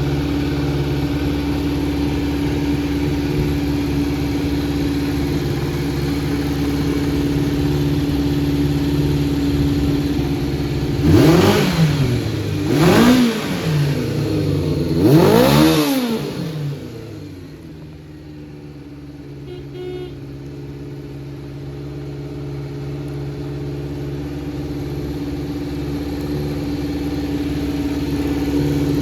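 Kawasaki Z400J's air-cooled inline-four engine idling through an aftermarket four-into-one collector exhaust, then three quick throttle blips about eleven to sixteen seconds in. After the blips the engine sound drops away sharply and only slowly builds back up, an unsteady idle that the seller puts down to carburettors needing adjustment.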